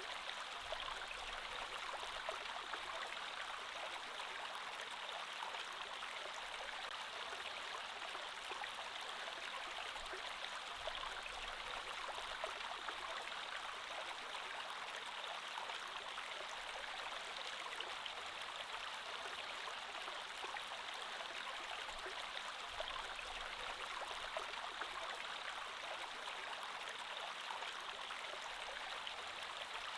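Creek water flowing steadily over stones, a constant babbling rush.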